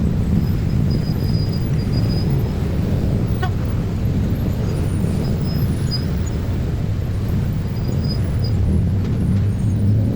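Steady low rumble of passing road vehicles, with faint short high chirps now and then.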